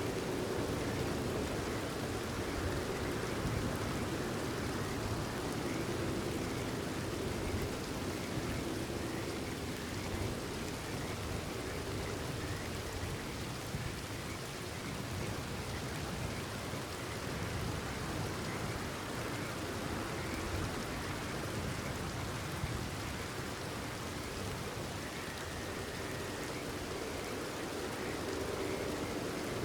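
Steady rainfall pattering on surfaces, with faint frogs calling among it.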